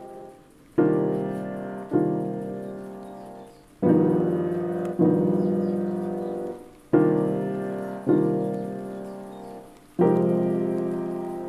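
Background piano music: a slow piece of chords, each struck and left to ring and fade, a new one about every one to two seconds.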